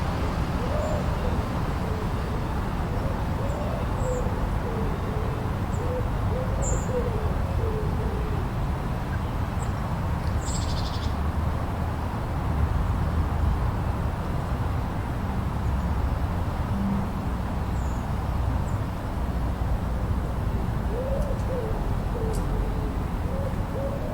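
Blizzard wind rushing steadily, with a deep rumble. Two runs of short wavering hooting calls sound over it, one near the start and one near the end.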